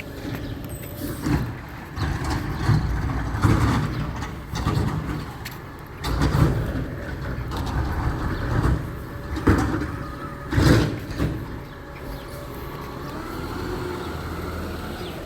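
Garbage truck running, with a series of loud clanks and bangs, about five in the first eleven seconds, over a low engine rumble that goes on more steadily afterwards.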